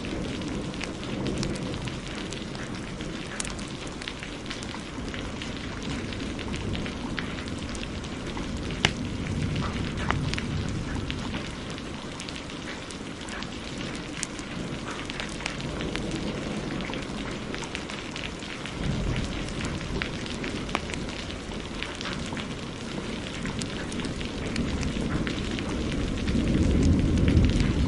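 Steady heavy rain mixed with the pops and crackles of a wood fire. Low thunder rumbles about two-thirds of the way in and builds louder near the end.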